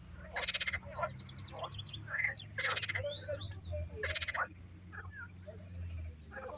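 Frogs calling: short, rattling pulsed calls repeat every second or so, with shorter gliding chirps between them. A low steady hum runs underneath and stops about six seconds in.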